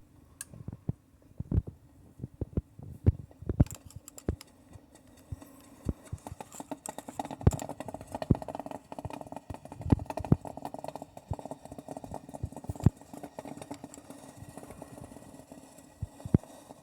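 Irregular light knocks and clinks of a thermometer and utensil against a small metal saucepan of ramen noodles, as the temperature is checked.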